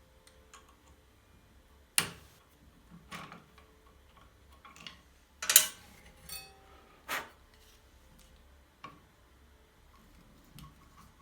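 Scattered short knocks and clicks on a hard surface, about eight of them at uneven intervals; the loudest comes about two seconds in and another a little past the middle.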